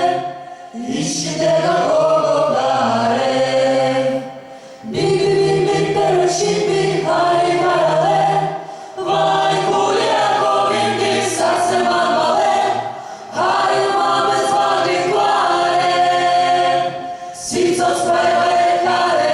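Choir singing a Georgian song in several-part harmony, in long held phrases of about four seconds with brief breaks between them.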